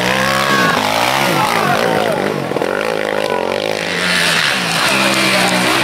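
Off-road racing engines revving hard as a quad and then an enduro motorcycle come along a dirt rally track, the pitch rising and dropping again and again with throttle and gear changes.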